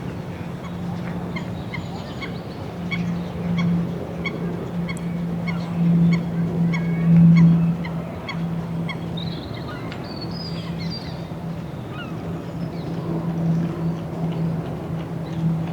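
Geese honking on and off around the lake, the honks swelling loudest a few times. A small bird gives a regular series of short high chirps, about two a second, through much of it.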